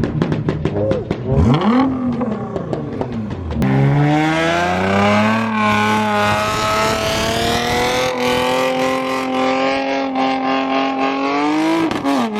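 Modified car engines revving hard. For the first few seconds the engine note swoops up and down with sharp crackling pops. Then an engine climbs and holds a high, steady rev for several seconds, dipping briefly near the end.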